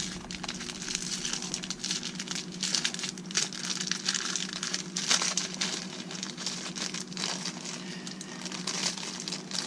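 Plastic packaging crinkling and rustling in irregular handfuls as a parcel of parts is opened and dug through, over a steady low hum.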